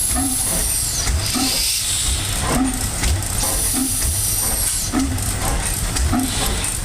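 Old Evans Manufacturing Company stationary gas engine running slowly, a regular beat a little over once a second under a steady hiss.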